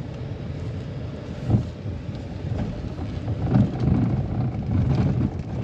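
A vehicle driving along a road: steady low engine and road rumble with wind on the microphone, and a couple of brief thumps as it goes.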